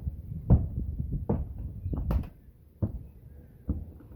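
Footsteps on a metal roof: a run of irregular dull thuds, roughly one a second, with one sharper knock near the middle.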